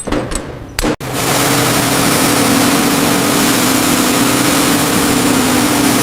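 A machine running steadily: a motor hum under a strong, even hiss. It starts abruptly about a second in.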